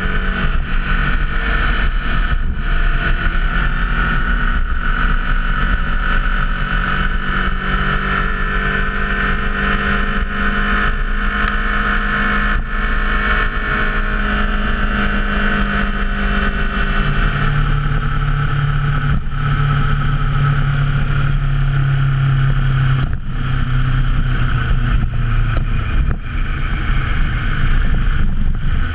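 Motorcycle engine running steadily under way, with wind rushing past. A little past halfway the engine note drops to a lower pitch and holds there.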